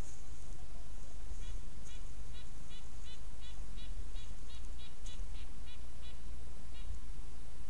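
A bird calling: a series of about fifteen short, repeated notes, roughly three a second, starting about a second and a half in and stopping near the end, over a steady low hiss.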